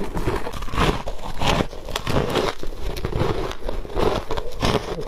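Ice being bitten and crunched, close to the microphone: a quick run of sharp crunches and crackles, one after another.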